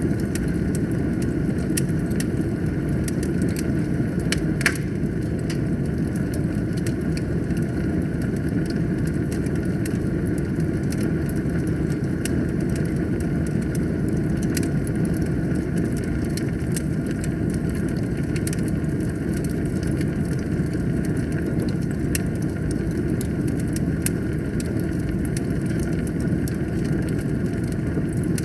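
Wood fire burning in a fireplace: a steady low rush of flame with frequent small crackles, and one sharper pop about five seconds in.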